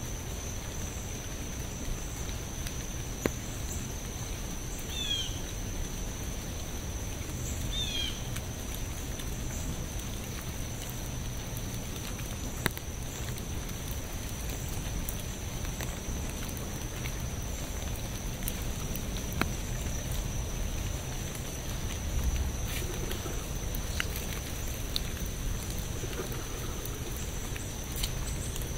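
Steady rain with a low rumble and scattered sharp drips. A bird chirps briefly twice, about five and eight seconds in.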